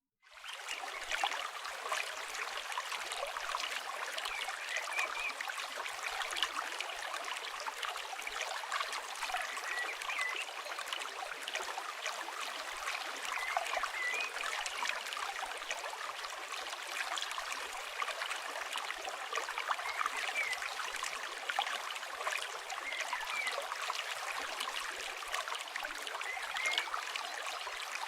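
Mixed nature soundscape of a river flowing with a steady rush. Short bird chirps come and go throughout, over a light crackle from a campfire. It fades in at the start.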